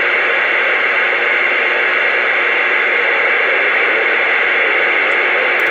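CB radio receiver hissing with loud, steady static between transmissions, the open channel carrying noise and no readable voice.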